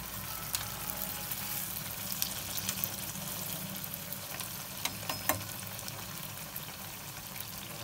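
Bread slices sizzling and crackling as they fry in very hot ghee in a frying pan. A couple of sharp clicks about five seconds in as steel tongs touch the pan.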